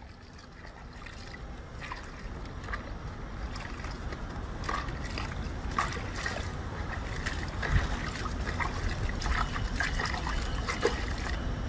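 Water splashing and trickling, with scattered small clicks, growing steadily louder.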